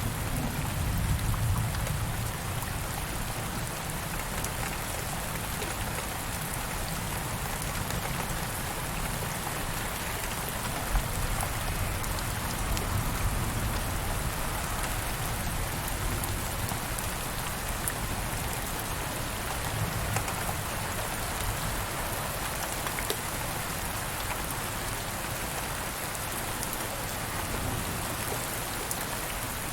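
Steady rain pattering on surfaces, an even hiss with scattered drop ticks and a faint low rumble of distant thunder near the start.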